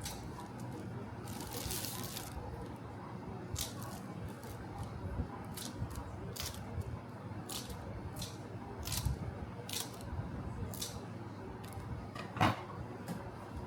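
Kitchen prep handling sounds: a string of short, crisp snips or rustles about once a second, with a longer rustle about a second and a half in and a sharper knock near the end.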